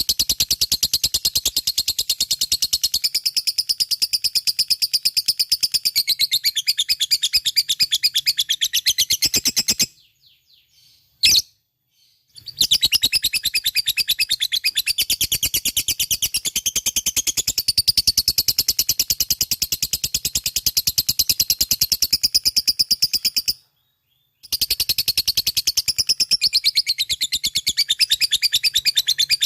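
Lovebird's ngekek: a long, unbroken, rapid chattering trill of high notes. It breaks off for about two and a half seconds about ten seconds in, with a single click in the gap, and again for about a second later on, each time resuming at once.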